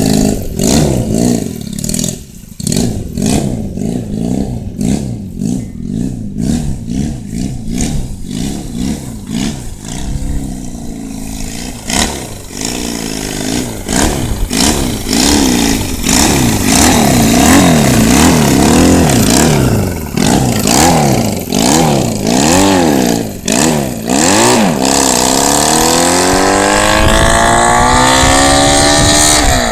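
Motorcycle engine revved over and over in quick blips, with sharp cracks and pops from an exhaust fitted with a flame-thrower kit. Near the end the engine pitch climbs steadily in one long rev.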